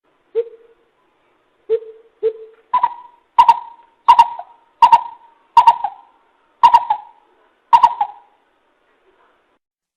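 Coucal calling: three deep hoots in the first couple of seconds, then a run of about eight higher notes evenly spaced, roughly one every 0.7 seconds, stopping about eight seconds in.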